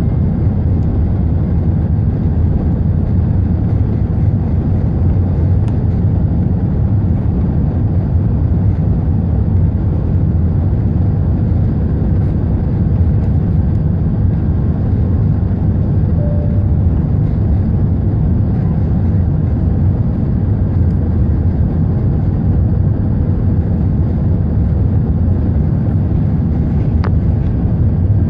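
Airbus A380 under way on take-off, a loud steady low rumble of engines and airflow. There is a short faint tone about halfway through.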